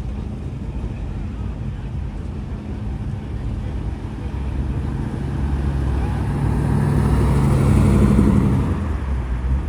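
A classic car driving past, its engine and exhaust making a low rumble that grows louder to a peak about eight seconds in, then begins to fade.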